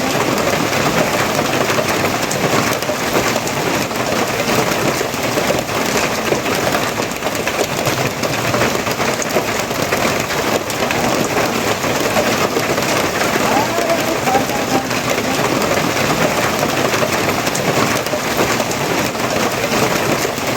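Steady heavy rain, a dense, even patter of drops hitting surfaces.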